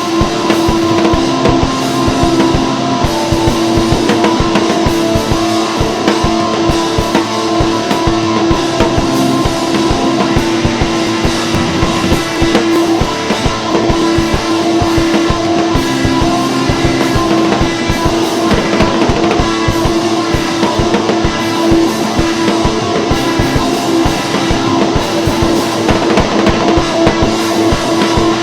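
Rock music with drums and distorted guitar, loud and continuous, with held guitar notes over a fast drum beat.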